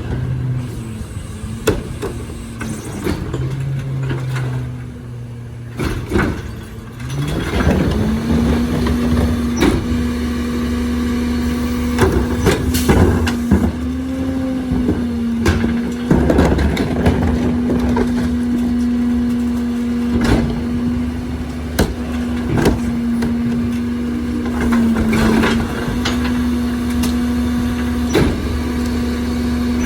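Compressed-natural-gas engine of a Crane Carrier refuse truck with a Leach rear-loader body, running low, then speeding up about seven seconds in and holding a steady higher speed until it drops back near the end. Repeated clanks and knocks sound over it.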